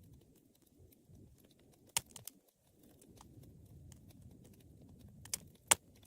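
Wood fire burning with a low steady rumble, a scatter of faint crackles and a few sharp pops, the loudest about two seconds in and a pair near the end.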